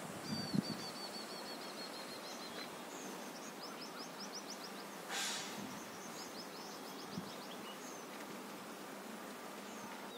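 A small bird calls in quick runs of short, high chirps over a quiet outdoor hiss: one long run near the start, then shorter runs later. About five seconds in there is a brief rustling whoosh, and there are a few soft low thumps right at the start.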